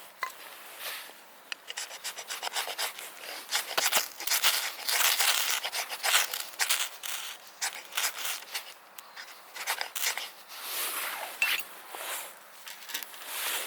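Irregular rustling and rubbing with many small clicks, close up: things being handled.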